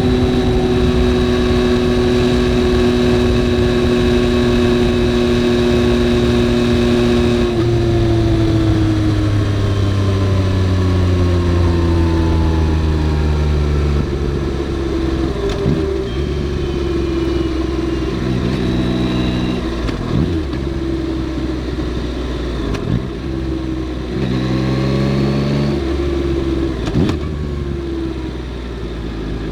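Yamaha XSR900's inline three-cylinder engine running under way. It holds a steady note for about seven seconds, then drops suddenly in pitch and winds slowly down. In the second half come several short rises in pitch, each broken by a brief dip, like gear changes.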